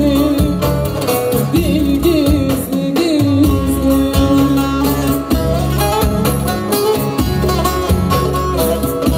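Live Turkish folk music: a voice singing a wavering melody over plucked strings and a steady beat, with the instruments carrying on alone in the second half.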